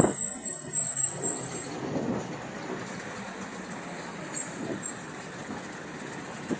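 Steady street noise of passing road traffic, with a thin high-pitched tone over it.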